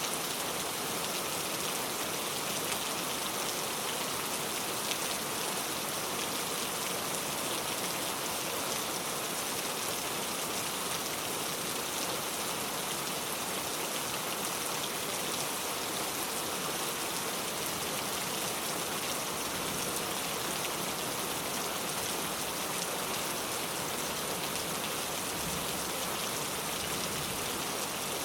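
Steady rain falling on a car, an even patter of drops.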